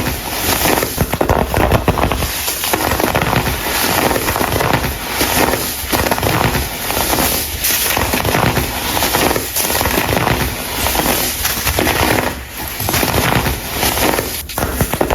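Hardened, colored baking soda crumble being crumbled and crushed, a dense, continuous crackling crunch.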